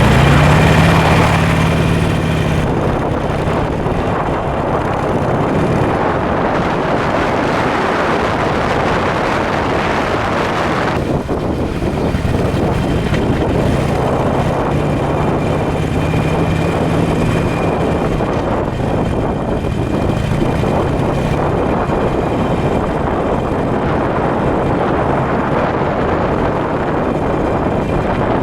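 Harley-Davidson Sportster 883 Iron's air-cooled V-twin running through North American-spec mufflers with 12 mm punched-out baffles, a deep, heavy exhaust note. The engine note swells near the start and again about 13 seconds in, otherwise holding steady.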